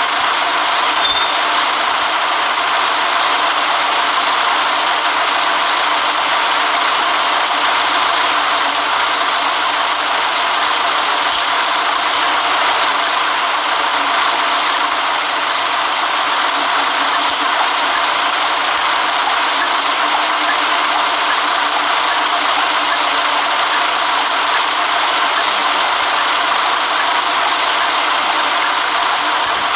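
Steady engine and road noise of a moving city bus.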